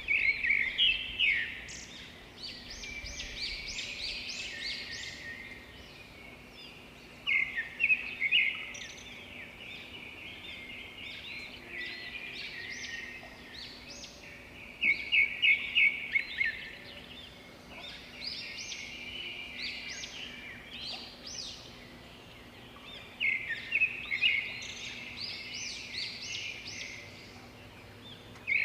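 Birds chirping: a loud burst of rapid, high chirps comes about every seven or eight seconds, with quieter chattering chirps in between.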